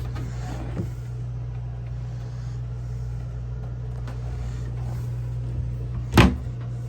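Steady low mechanical hum from machinery running aboard, with one sharp knock about six seconds in.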